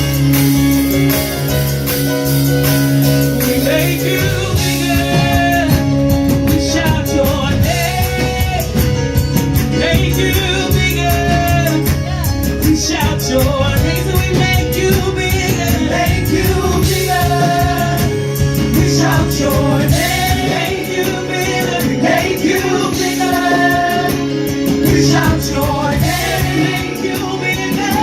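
Live church worship band playing a gospel song: held chords over a steady beat, with singing coming in about four seconds in.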